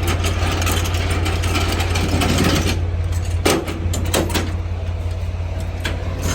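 Semi-truck diesel engine idling steadily, with a few sharp metallic clicks and knocks a little past the middle.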